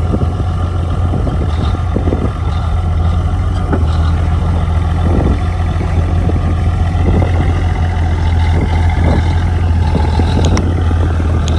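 Heavy diesel engine of earthmoving machinery running steadily with a deep low hum, with a couple of short metallic clicks near the end.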